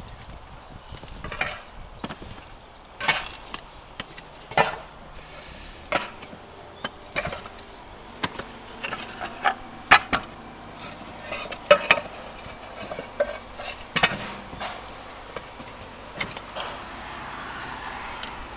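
Irregular sharp knocks and clinks of clay roof tiles and tools being handled during roof ridge work, a dozen or so scattered hits, some with a short ring.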